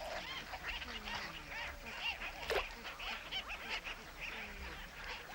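A flock of gulls calling, many short overlapping cries, with one louder brief sound about two and a half seconds in.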